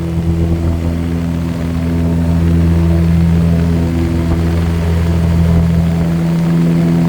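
Propeller airplane engine running with a steady, even drone.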